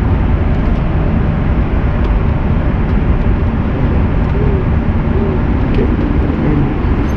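Steady cabin noise of an Airbus A330-300 airliner in flight: a loud, even rush, strongest in the low range, with faint voices in the background.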